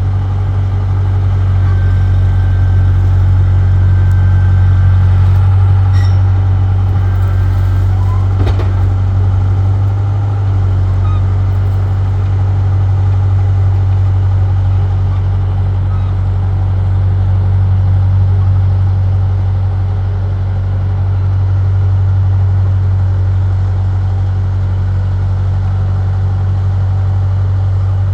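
Bulldozer's diesel engine running steadily with a deep, loud drone while it pushes dirt, with a couple of short metallic clanks about six and eight seconds in.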